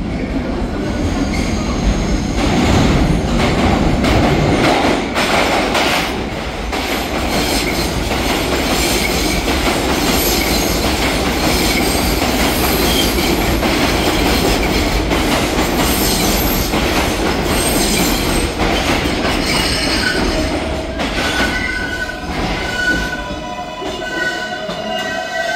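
New York City Subway R142A train entering the station and braking to a stop: the rumble and clatter of wheels on rail, with wheel squeal, loudest in the first few seconds. A set of steady high tones sounds near the end as the train comes to a halt.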